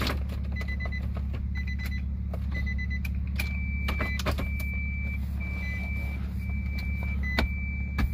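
Steady low hum of the Nissan Armada's 5.6-litre V8 idling, with several sharp clicks from wiring connectors being handled under the head unit. A faint high-pitched beeping tone comes and goes in short dashes, longer ones from about three seconds in.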